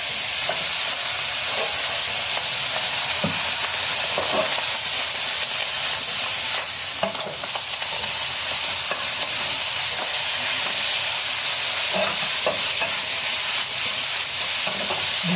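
Greens sizzling steadily as they stir-fry in a hot wok, with a wooden spatula stirring them now and then.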